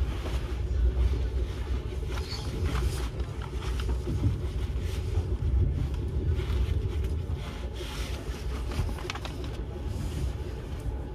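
Steady low rumble of a railway train, with a few faint clicks.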